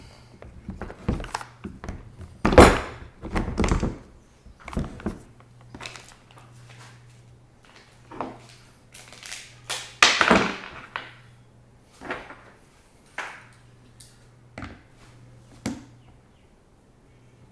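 Irregular knocks, thunks and clatter of chainsaw parts being handled and fitted together during assembly of the saw's handle, with the loudest clunks about two and a half seconds in and again about ten seconds in.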